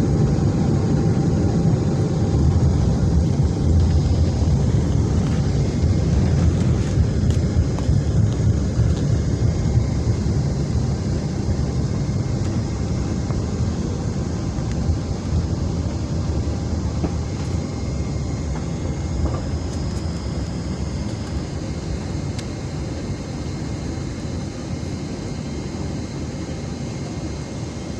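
Jet airliner heard from inside the cabin on landing: a loud, steady low rumble that slowly fades as the plane slows on the runway.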